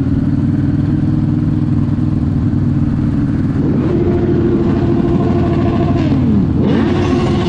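Sport motorcycle engine running steadily. About three and a half seconds in it revs up to a higher note and holds it, then falls in pitch at about six seconds.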